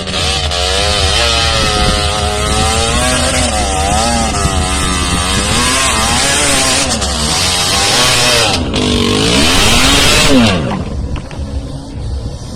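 Off-road vehicle engine revving hard, its pitch climbing and falling again and again as the throttle is worked. It is loudest just before the end, then drops away suddenly.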